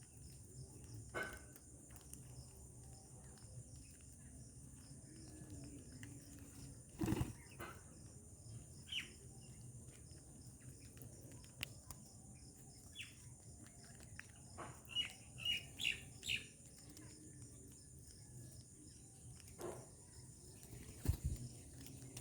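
Birds giving short, scattered chirps, most of them bunched together past the middle, with a few sharp knocks in between.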